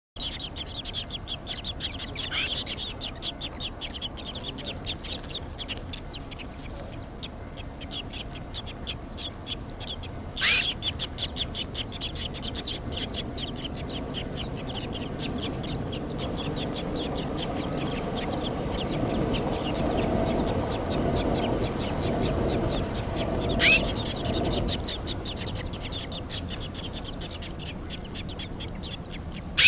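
Barn swallow nestlings giving their begging calls: a fast, continuous stream of high chirps that surges suddenly loudest three times, about two seconds in, ten seconds in and near twenty-four seconds. A low rumbling rustle also rises in the middle of the stretch.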